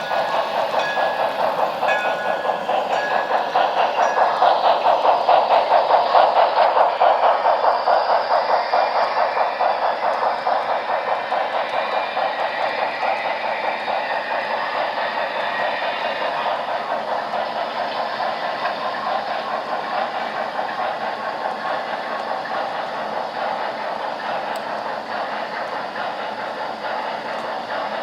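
HO scale model steam train running, with a rapid, even beat of pulses over a steady rail clatter. It builds to its loudest about six seconds in, then slowly fades.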